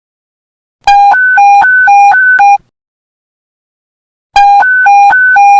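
Police panic-button alert sound effect: an electronic beep switching quickly back and forth between a low and a high pitch. It comes in two short bursts with a silent gap between them; the second begins near the end.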